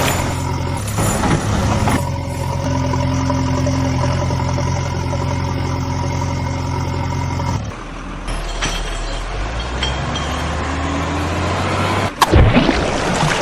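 Vehicle engine running steadily; its note changes about two-thirds of the way through. Near the end there is a brief sweeping sound that falls and rises again.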